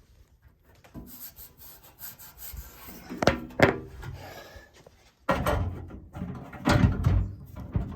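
Sheet-metal access panel of a Rheem gas furnace being fitted back on: scraping and rubbing, two sharp knocks about three seconds in, then a louder run of knocks and clatter in the second half.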